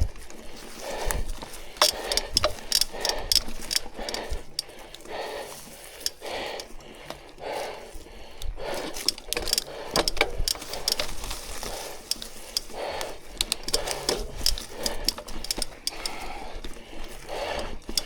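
Mountain bike being pushed up a steep trail on foot: the rear hub's freewheel ticks as the wheel rolls, with footsteps and irregular clicks and knocks from the bike and the ground.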